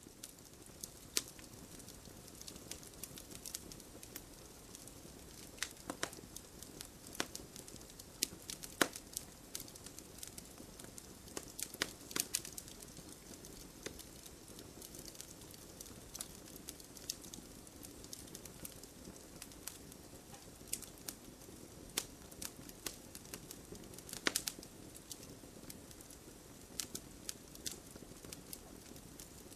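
Wood fire burning in a fireplace: a steady low hiss with irregular sharp crackles and pops, a few louder snaps scattered through.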